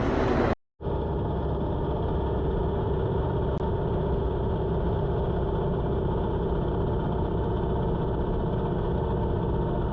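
Motorcycle V-twin engine running steadily at an even speed, with a brief dropout just after the start.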